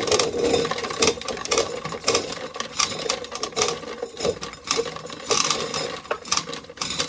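Corn sheller working an ear of corn: its gears turning, with kernels breaking off in a dense, irregular rattle of clicks.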